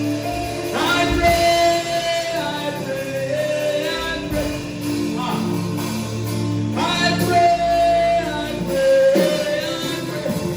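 Gospel worship music: singing held and gliding over sustained instrumental backing.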